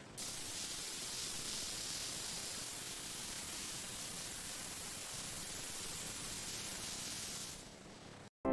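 Steady, even hiss with no tone in it, fading out near the end.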